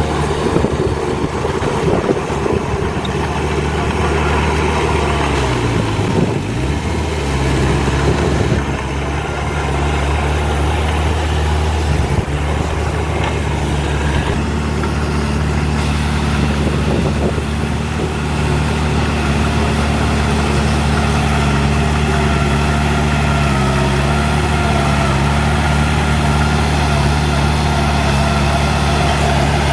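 Heavy diesel engine of earth-moving machinery running steadily. Its pitch dips and recovers about six seconds in, and briefly again near the end.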